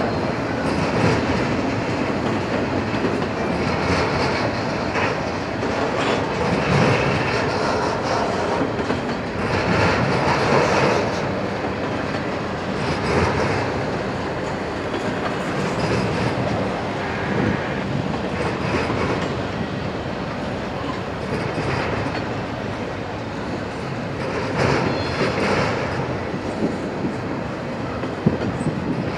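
Freight train's single-stack intermodal well cars rolling past, their wheels clacking over rail joints and crossover switches, with a louder surge about every three seconds as each set of wheels passes.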